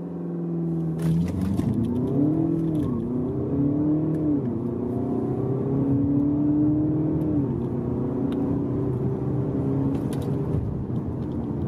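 The 2.0-litre twin-turbo four-cylinder diesel of a 2015 VW Passat B8 wagon accelerating hard from a standstill with traction control off. It holds steady revs for about a second before the launch, then climbs in pitch through its DSG gears, dropping back at each upshift about three, four and a half and seven and a half seconds in.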